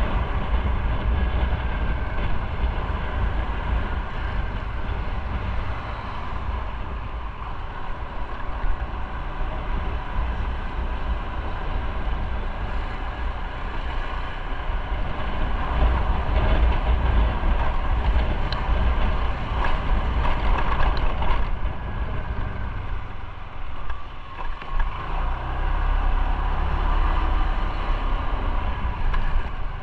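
Motorcycle on the move: engine running with road and wind noise on the microphone, easing briefly about twenty-four seconds in before picking up again.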